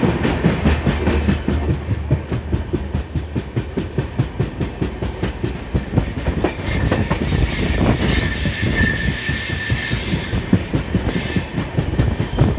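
Passenger train running fast, its wheels clattering rapidly over the rail joints, heard from aboard. A little past the middle, a high wheel squeal comes in for about three seconds.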